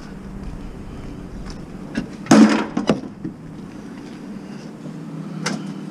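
A steady low hum, with a loud clattering knock a little over two seconds in and a shorter knock near the end.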